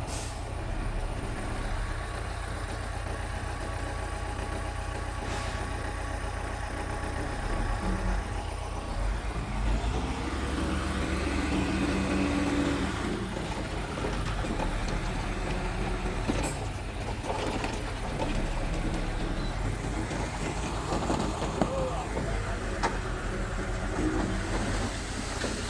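A bulldozer's diesel engine running steadily under work, rising in pitch for a few seconds near the middle, with a few sharp metallic knocks later on.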